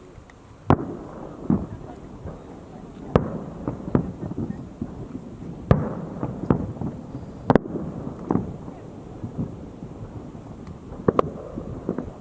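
Fireworks display: aerial shells bursting with sharp bangs roughly every second or two, a quick double bang a little past the middle and a pair near the end, with rumbling echoes between them.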